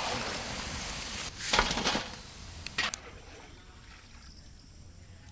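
Sesame oil sizzling as ginger sticks fry in it. It is loudest about a second and a half in, with a couple of brief clicks near three seconds, then settles to a faint hiss.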